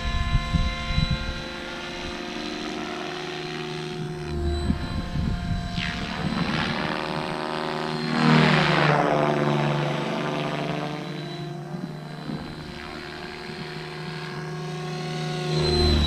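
LOGO 600 radio-controlled helicopter in flight, the whine of its motor and rotor blades rising and falling in pitch and loudness as it passes by, loudest about eight seconds in and again near the end.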